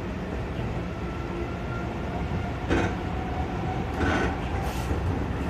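Seibu 40000 series electric train running, heard from inside the car: a steady rumble under a faint motor whine, with a few short sharp knocks near the middle and toward the end.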